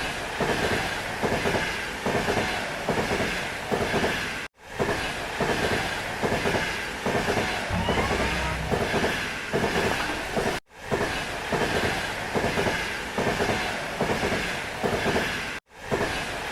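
Train running along the track, its wheels clattering over the rail joints in a steady clickety-clack rhythm. The sound cuts out for an instant three times.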